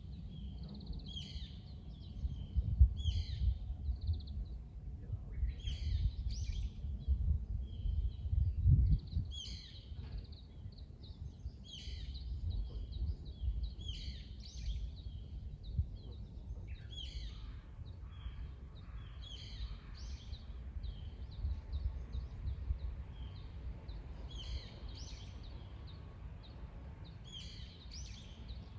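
Songbirds singing short, repeated chirping phrases every second or two, over a low rumbling background that is louder in the first ten seconds.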